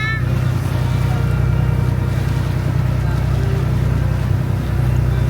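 Boat engine running at a steady low drone, with an even hiss over it.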